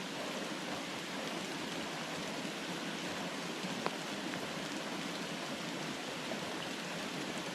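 Steady hiss of flowing creek water and falling rain, with one faint tick just before the middle.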